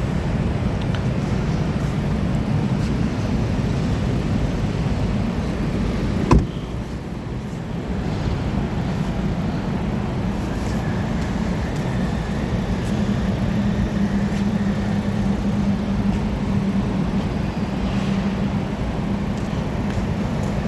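A car running steadily with a low hum, broken by one sharp knock about six seconds in.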